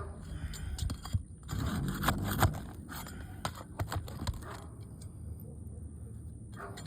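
Scraping and crackling as the seal strip under brittle asphalt roof shingles is broken loose and the shingles are pried up, with a run of short sharp clicks.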